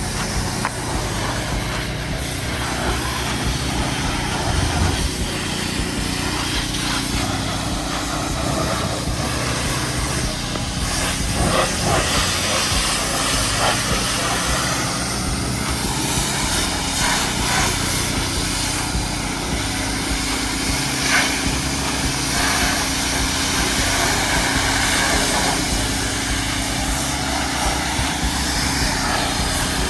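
Pressure washer rinsing a car: a steady hiss of water spray over the constant hum of the washer's pump motor.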